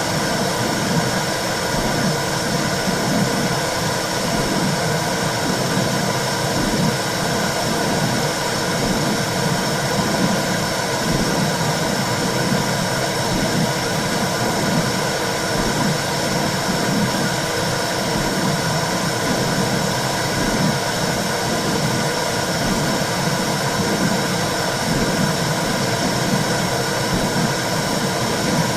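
Womb-sound recording for soothing a baby: a steady rushing noise with a low, regular pulsing beneath it.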